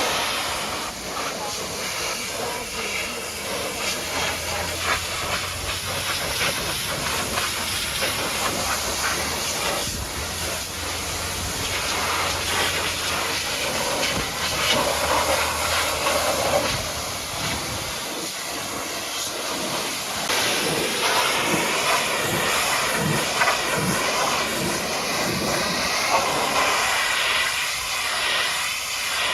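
High-pressure water jet spraying against a mud-caked truck, a loud steady hiss of water blasting off the mud. A low steady hum runs under it for about the first half.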